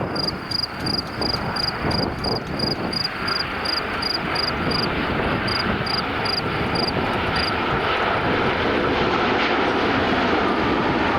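Boeing 787-9 Dreamliner's GEnx-1B turbofans on landing approach: a steady jet rush with a whine coming in about three seconds in, growing slightly louder as the airliner comes closer. A high chirp repeats about twice a second until about seven seconds in.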